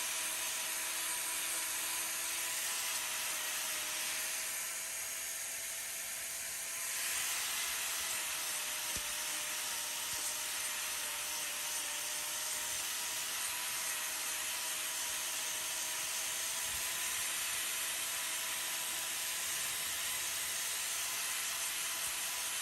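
Steady mechanical whirring hum with a few steady tones running through it. It dips briefly and changes in texture about five to seven seconds in, then carries on evenly.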